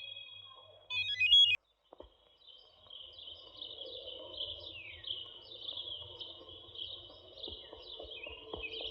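A telephone's electronic ring, one short burst ending about a second and a half in. Then birds chirp steadily over a low background hum.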